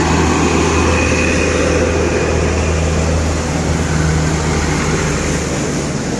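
Medium truck's engine running loudly and steadily as it passes, the low engine hum easing off near the end.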